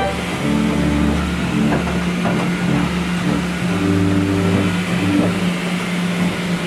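Pipe organ playing deep bass notes that change every second or so under one steady held tone, heard close up from inside a pipe chamber, over a constant hiss.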